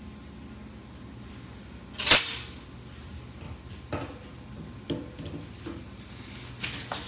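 Metal parts being handled on a workbench: one sharp metallic clank with a brief high ring about two seconds in, then a few light clicks and knocks.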